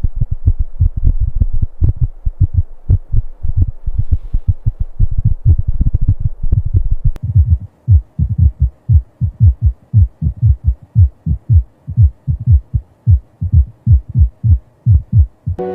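Rapid heartbeat: low, even thumps at about three a second, with no break.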